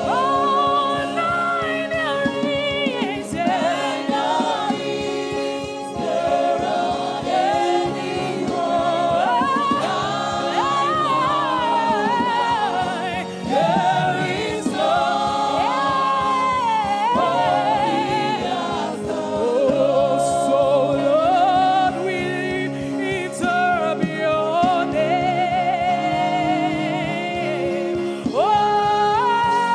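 Gospel worship singing: a lead voice sings melodic lines over a choir and sustained instrumental backing.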